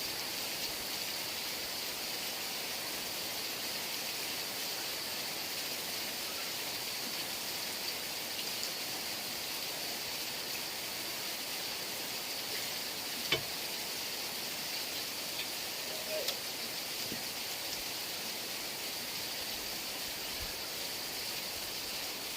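Heavy rain falling in a steady, even hiss. A single sharp tap stands out a little past halfway through.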